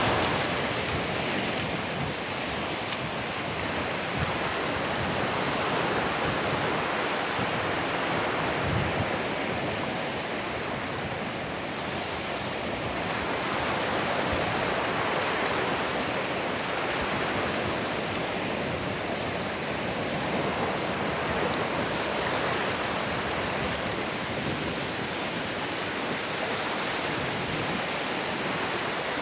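Ocean surf washing onto a beach: a steady hiss of breaking and receding waves that swells and eases gently.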